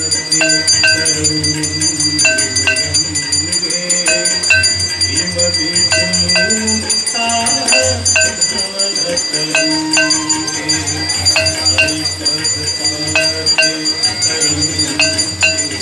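Hindu devotional aarti music: a steady rhythm of ringing metal strikes, often in pairs, over a low sustained accompaniment.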